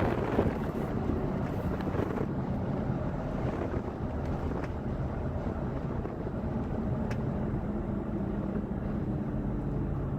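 Steady engine and road noise of a car driving slowly, heard from inside the cabin, with a low hum and a couple of faint clicks.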